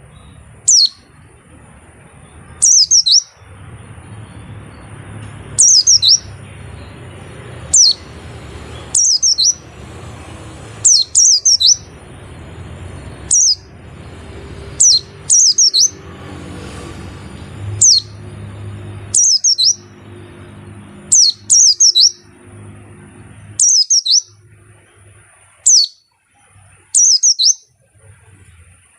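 Pleci (white-eye) calling: short, loud, high chirps that fall in pitch, given singly or in quick pairs every one to two seconds, over a faint low hum.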